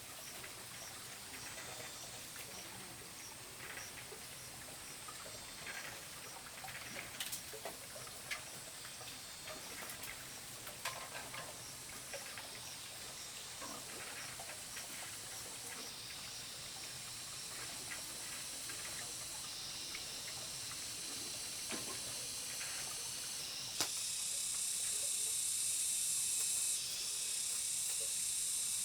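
Cicadas buzzing in a steady high-pitched chorus that grows louder and jumps up in level near the end, with scattered light knocks and taps.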